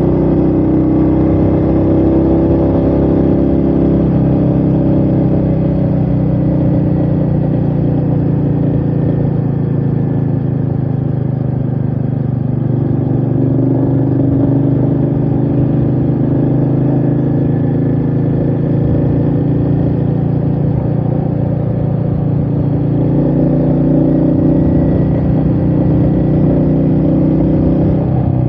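Royal Enfield Meteor 350's single-cylinder engine running steadily under way, with wind noise. Its pitch eases a little about halfway through, then picks up again.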